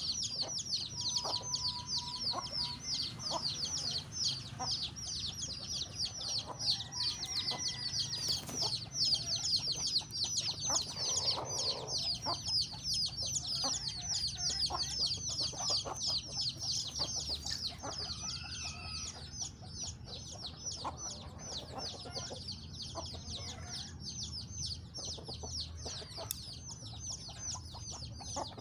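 Chickens calling, mostly a continuous dense run of short, high-pitched peeps many times a second, with scattered light knocks.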